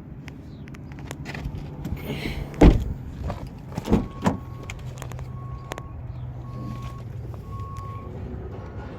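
Car door handled: clicks and a loud knock, then two more knocks. These are followed by a run of short, even electronic beeps about once a second.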